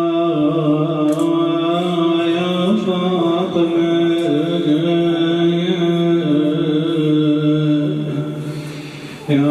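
A man chanting a naʿi, a Shia Arabic mourning lament, unaccompanied, in long held notes with slow turns in pitch; his voice fades near the end and comes back strongly after a short breath.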